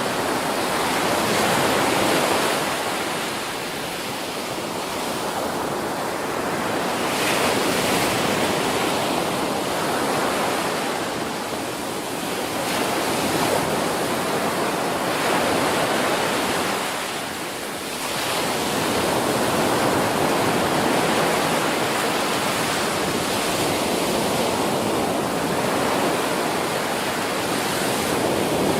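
Ocean surf breaking on a beach, from a storm swell: a continuous wash of waves that swells and eases, dipping briefly about four, twelve and seventeen seconds in.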